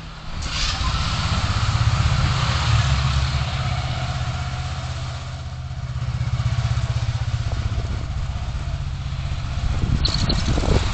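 Traffic heard through a car's dash camera: a steady low engine drone with road noise that grows louder about half a second in.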